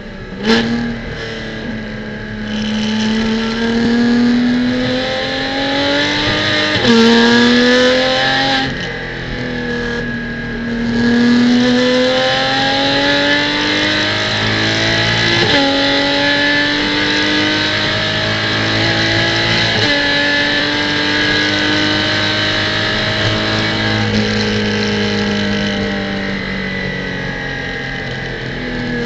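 Porsche Cayman GT4 Clubsport's flat-six engine heard on board, pulling through the gears with sharp upshifts about seven, fifteen and twenty seconds in, then winding down slowly near the end.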